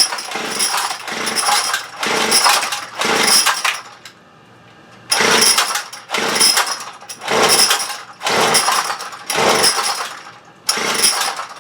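Small handheld two-stroke engine revved in short bursts of throttle, about one a second, dropping back to a lower idle for about a second partway through. It is running rough while its idle is being adjusted.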